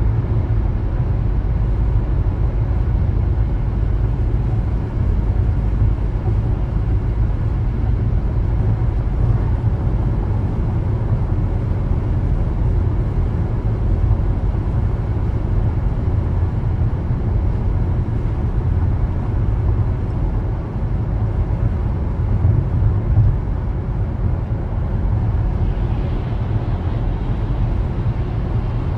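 A car driving at a steady pace: continuous low rumble of tyres on the road and the engine, with no sudden events.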